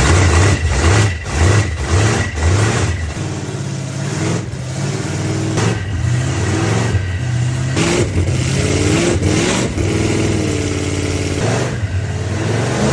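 Freshly built car engine running on its first start before break-in. It is revved in several quick blips in the first few seconds, then settles to a steadier run whose pitch wavers up and down.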